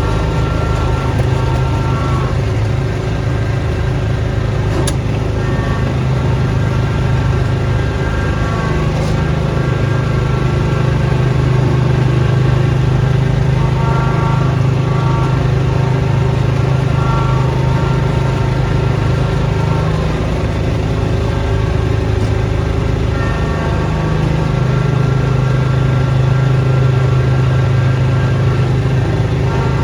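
Snowblower engine running steadily, its drone swelling a little louder partway through and again near the end.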